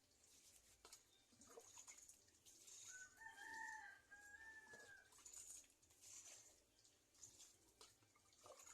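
A single rooster crow, faint and lasting about two seconds, about three seconds in. Faint short rustles come and go around it.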